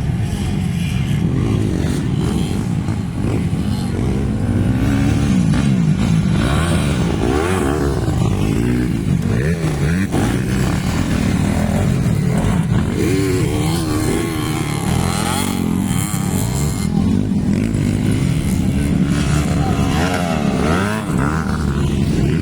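Several motocross bikes racing, their engines revving up and down over and across one another as the riders throttle on and off around the track.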